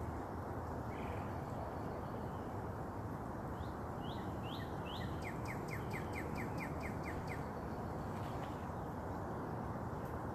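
A songbird calls over steady background noise: a few rising chirps, then a quick run of about ten short falling notes lasting a couple of seconds.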